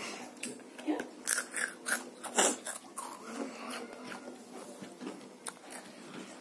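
A child chewing spicy noodles close to the microphone: a quick run of wet mouth smacks and clicks, thickest in the first three seconds, then sparser.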